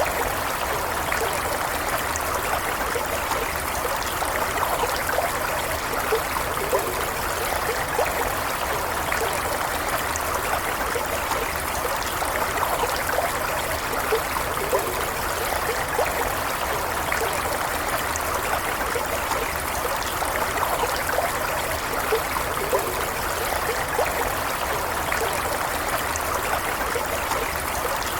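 A small stream running steadily over stones, an even wash of flowing water with small splashes and gurgles throughout.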